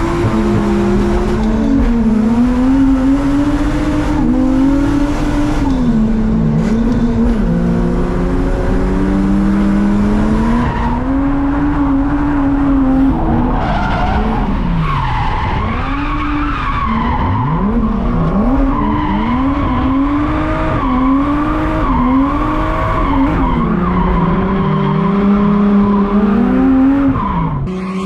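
Drift car's engine revving hard, its pitch climbing and dropping again and again with the throttle, over tyre squeal as the car slides through a drift run on worn-out tyres.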